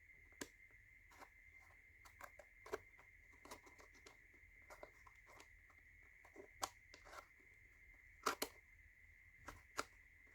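Wooden tiles of a laser-cut slide puzzle being pushed around the frame: faint, irregular clicks and knocks, a few louder ones near the end, over a faint steady high-pitched tone.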